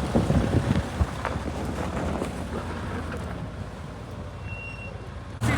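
A vehicle engine running steadily, with wind buffeting the microphone and a few sharp knocks in the first second or so.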